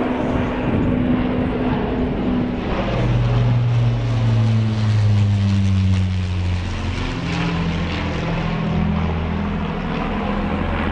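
Avro Lancaster bomber's four Rolls-Royce Merlin piston engines droning as it flies past, the engine note dropping in pitch as it passes.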